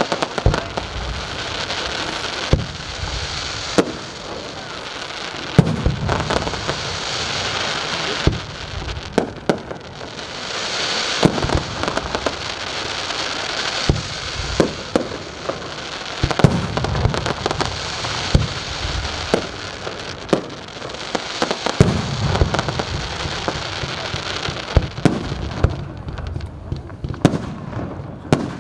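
Fireworks display: a continuous hiss of fountains and comets that swells and eases, cut by many sharp bangs from bursting shells at irregular intervals.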